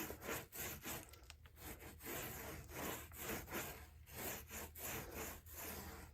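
Faint rhythmic scraping and rubbing strokes, about two a second, from hand-working fibreglass resin and hardener.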